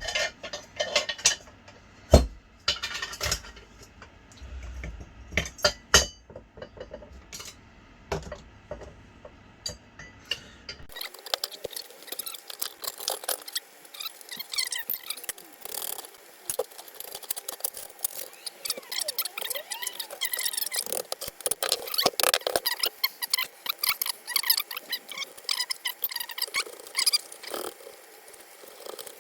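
Steel bolts and metal parts clinking and knocking as they are handled and fitted into a welded steel frame, a scatter of sharp clinks. About eleven seconds in, the sound changes abruptly to a dense run of quick squeaky chirps and ticks.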